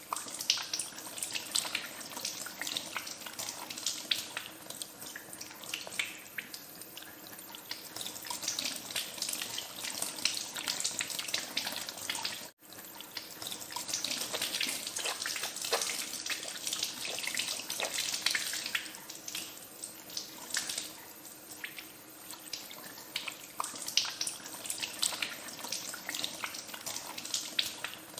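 Tap water running into a sink, splashing unevenly as hands are washed under the stream. The sound cuts out for a split second about halfway through, then carries on.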